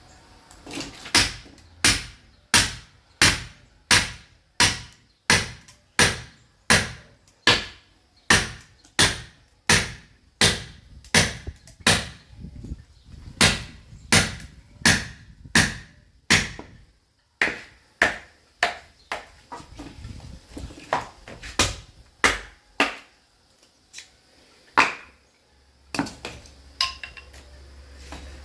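Sledgehammer striking a steel chisel to split a log of firewood: a regular run of sharp blows about one and a half a second, turning into slower, irregular blows after about two-thirds of the way through.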